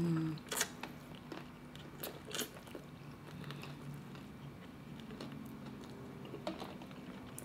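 Close-up eating sounds: biting and chewing crispy fried chicken, with a few sharp crunches about half a second in, around two seconds, and again near the end.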